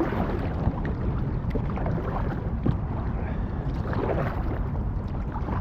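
Water sounds from paddling an inflatable kayak on a river, with a steady low rumble of wind on the microphone.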